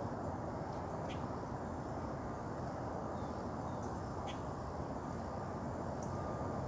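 Outdoor ambience: a steady background hum of noise with a few short, faint high chirps every second or few.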